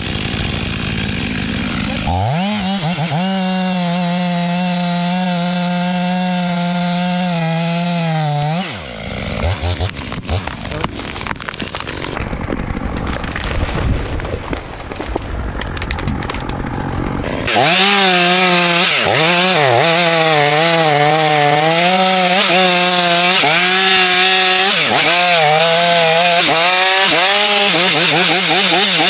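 Chainsaw running at high revs with a steady pitch, dropping away about eight seconds in, then running lower and unevenly. About two-thirds through it comes back louder, cutting through timber, its pitch wavering up and down under load.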